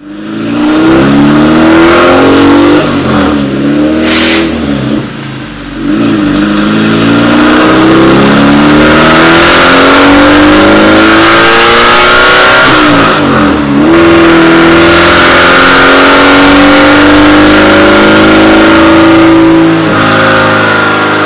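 Race car engine run at full throttle on a chassis dyno, loud, revving up in long rising pulls. The pitch breaks and drops about four and thirteen seconds in, then holds steady and high before falling away near the end.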